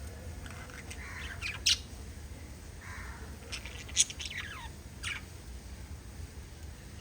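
Small pet parrots chirping and squawking: scattered short, sharp calls that drop in pitch, the loudest about a second and a half in and again about four seconds in, with softer chatter between.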